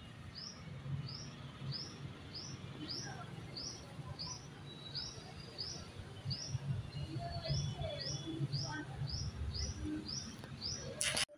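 A bird repeats one short, high chirp at an even pace, a little under twice a second, over a low steady hum. A sharp click sounds near the end, where the sound cuts off.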